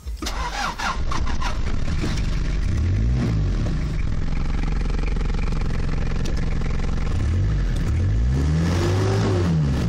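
A turbo-diesel car engine cranks briefly and catches about a second in, then runs, with a short rev about three seconds in and several revs up and back down near the end.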